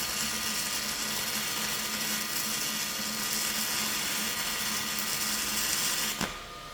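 Dual-shield (flux-cored) wire-feed welding arc crackling and hissing steadily as a bead is run, stopping abruptly near the end when the trigger is released, leaving a quieter steady hum.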